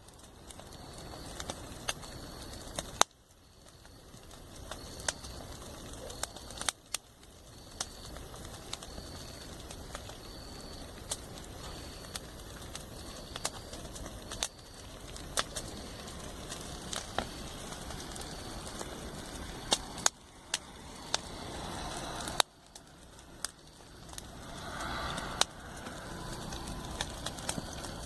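Campfire burning with irregular sharp pops and crackles over a steady hiss of flame. The background level drops suddenly a few times and builds back up.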